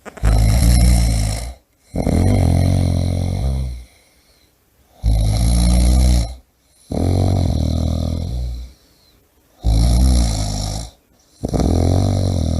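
A person snoring loudly and steadily: three breaths, each a shorter rough snore followed after a brief gap by a longer rumbling one, with a pause of about a second between breaths.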